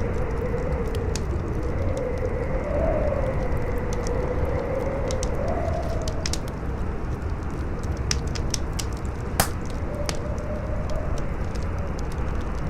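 Campfire crackling with scattered sharp pops, one louder pop about two-thirds of the way through, over strong howling wind: a steady rush with a wavering, whistling moan that rises and falls in pitch.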